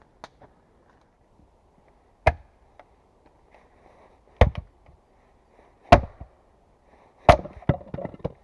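Axe chopping wood: four heavy blows about a second and a half apart, each a sharp crack with a thud, followed near the end by a few lighter knocks.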